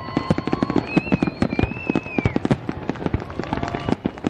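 Fireworks display: dense, rapid bangs and crackles from bursting shells. A few high whistles sound through the first half.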